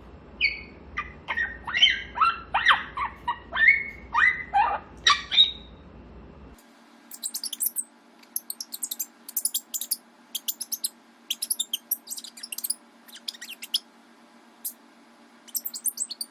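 Grey parrot chattering: a string of short whistled and squawked calls that glide up and down in pitch, then about six and a half seconds in, a run of quick, high clicking sounds.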